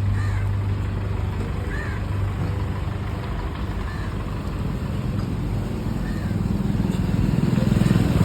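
Hindustan tractor's diesel engine running with a rapid low beat that grows louder over the last couple of seconds.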